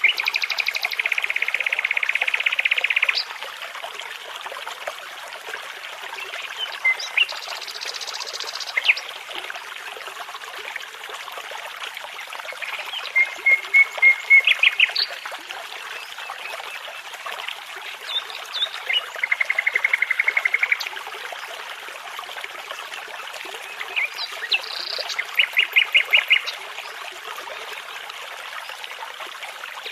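Songbirds singing in separate phrases of rapid repeated notes and trills, the loudest a three-second trill at the very start, over the steady rush of a babbling brook.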